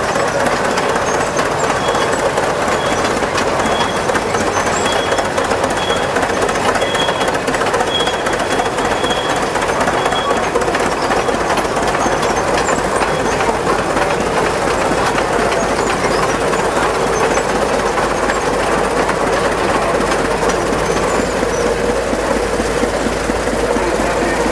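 Big old Holt engine running steadily with a loud, dense mechanical clatter. A faint high squeak repeats about once a second for the first ten seconds or so.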